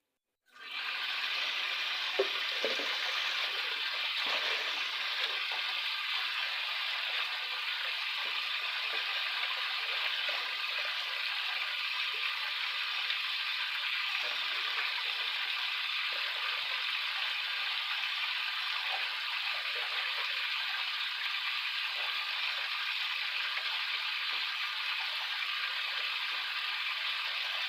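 Banana leaves rustling in the wind: a steady, dense hiss that starts abruptly about half a second in and holds even throughout.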